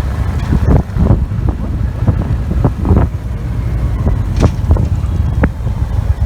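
Victory Vision touring motorcycle's V-twin running at road speed, with wind buffeting the microphone.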